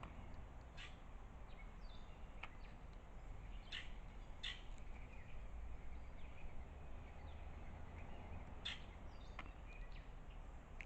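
Wild birds calling outdoors: a few short, scattered chirps over a steady low background rumble.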